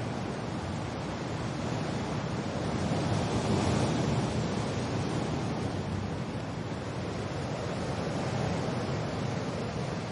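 Wind and rain ambience: a steady, dense rushing hiss that swells slightly about three to four seconds in.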